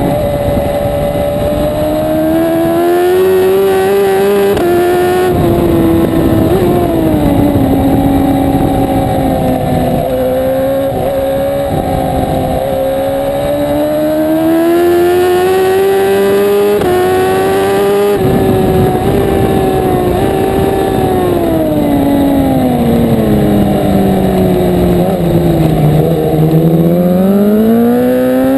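A 1000 cc superbike engine at racing speed, its pitch climbing under acceleration and dropping sharply at gear changes about five seconds in and again past halfway. Near the end the pitch sinks for several seconds as the bike slows for a corner, then rises again as it accelerates out.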